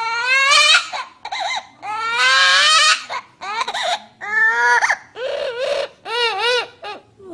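A bird mimicking a baby crying: a run of about seven loud wailing cries with short breaks between them, some rising in pitch and the later ones wavering up and down.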